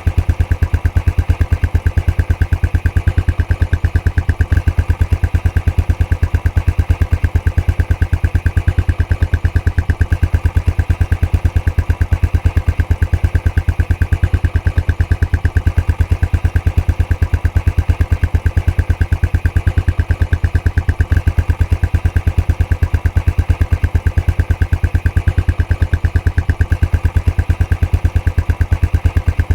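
Royal Enfield Classic 500's single-cylinder engine idling steadily through its stock exhaust, with a regular, even run of exhaust pulses.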